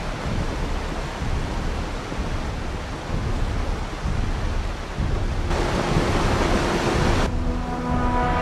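Steady low rumbling noise, an even wash with no distinct bangs. Near the end, music with long held notes comes in over it.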